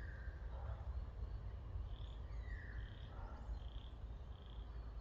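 Wild birds calling: a series of short high notes repeating a little under a second apart from about two seconds in, with a couple of falling calls, over a steady low rumble.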